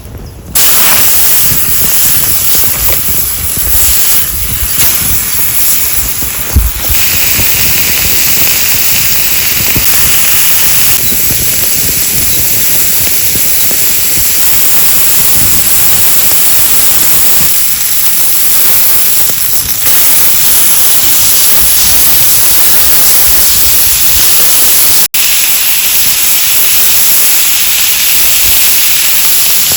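Ribeye steak searing on a hot stone over a campfire: a loud, steady sizzle. It breaks off for an instant about 25 seconds in.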